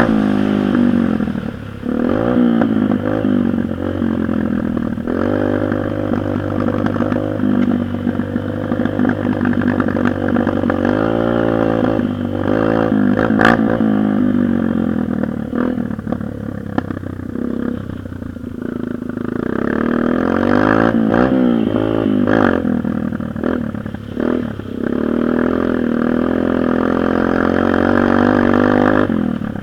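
Dirt bike engine running as it is ridden, revving up and down repeatedly through the throttle, with a few sharp clicks and knocks along the way.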